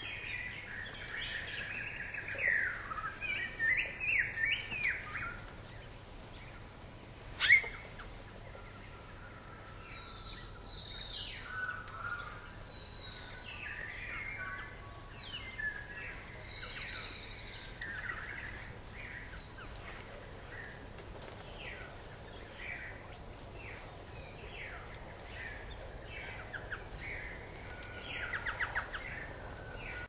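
Small songbirds chirping and singing, with many short notes that are busiest in the first few seconds. A single sharp note about seven seconds in is the loudest sound, and a quick trill comes near the end.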